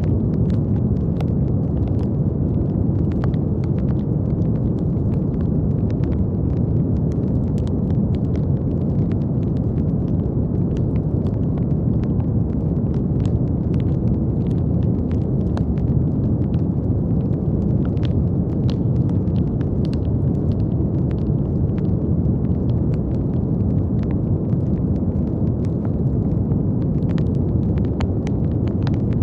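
Brown noise: a steady, deep, even hiss weighted heavily toward the low end. Faint, scattered crackles run through it.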